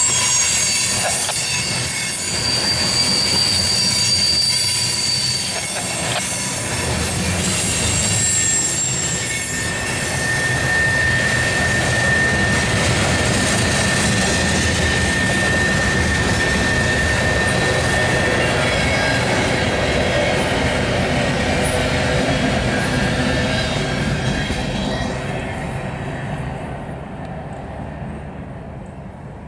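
Freight cars of a CSX mixed manifest train rolling past: steel wheels rumbling on the rails, with long, steady high-pitched wheel squeals. The sound fades over the last few seconds as the cars move away.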